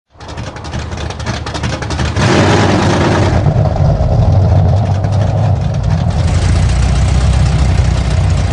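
Car engine running loudly, stepping up to a higher, louder pitch about two seconds in and holding there steadily.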